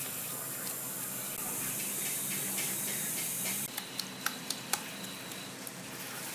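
A steady hiss that swells about a second and a half in and stops abruptly about two seconds later, followed by a few sharp clicks.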